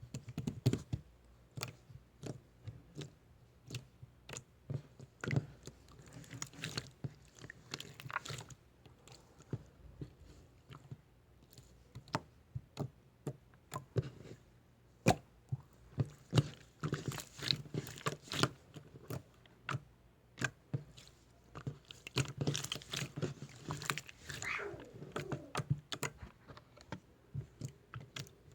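Slime being squeezed and pressed by hand: an irregular run of sticky clicks and small pops, coming in quick clusters at times.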